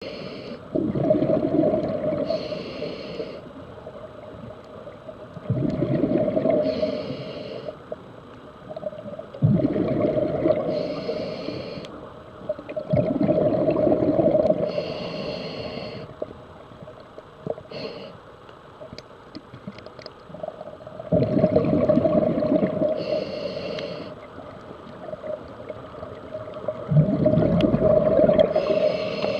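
Scuba diver breathing underwater through a regulator: a short hissing inhale, then a long bubbling exhale. There are about six breaths, one every four seconds or so.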